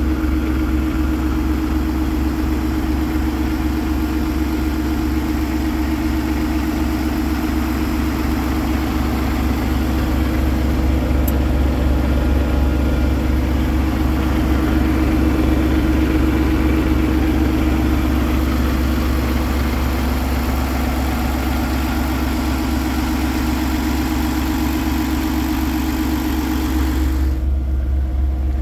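Paccar 510 hp diesel engine of a Peterbilt 389 truck tractor idling steadily. Near the end the higher part of the sound drops away, leaving a low rumble.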